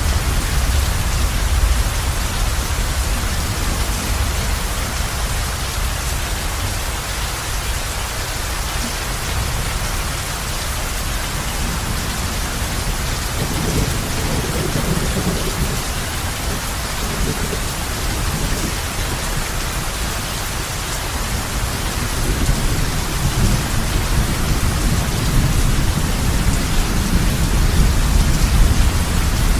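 Heavy rain falling steadily on a roof, with low rolls of thunder rumbling in about halfway through and again through the last few seconds.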